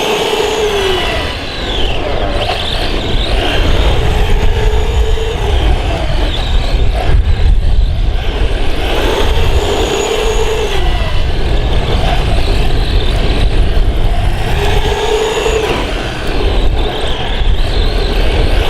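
Radio-controlled 1/10-scale electric monster truck driving, its brushless motor whining up and down in pitch with repeated bursts of throttle over a steady low rumble.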